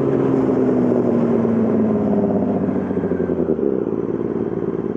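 2020 Yamaha R6's inline-four engine through a full M4 aftermarket exhaust, its note falling steadily over the first few seconds as the bike slows, then settling lower.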